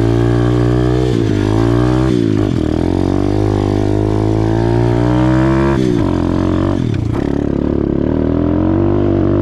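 Small single-cylinder four-stroke pit bike engine ridden hard around a dirt track, the pitch climbing under throttle and dropping sharply with shifts or throttle lifts several times, with a long climb before a drop about six seconds in.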